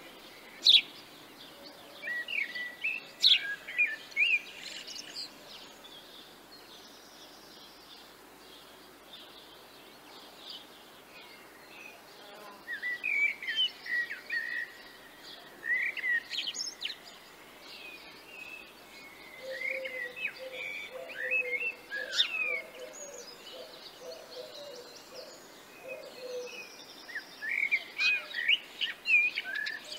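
Small songbirds chirping and trilling in bright, short phrases that come in clusters every few seconds, over a faint steady outdoor background noise.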